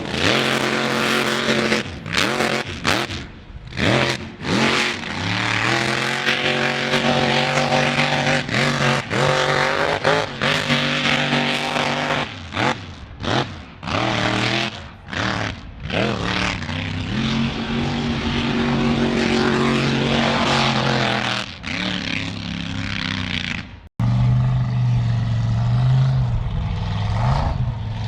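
Off-road truck engine revving hard in repeated on-off bursts over a loud hiss, then held at high revs for several seconds. About 24 seconds in, the sound cuts abruptly to a steadier, lower engine drone.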